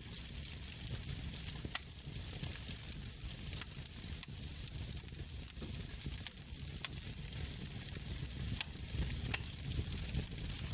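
Log fire crackling in a fireplace: a steady hiss and low rumble from the flames, with about half a dozen sharp pops from the burning wood scattered through.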